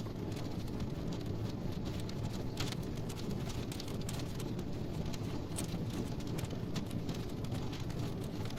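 Wood logs burning in a fireplace, crackling: frequent small pops and snaps, a few sharper ones, over a steady low rush of the flames.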